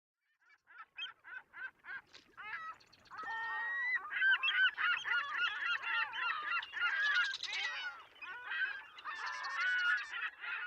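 A flock of birds calling. A few separate calls come at first, and after about three seconds they build into a dense overlapping chorus.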